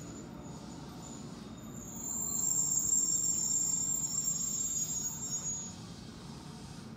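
JR West 221 series electric train coming into the station over a low rumble of wheels on rail. From about two seconds in until near six seconds a loud, high-pitched metallic squeal from the wheels rises over the rumble, then fades.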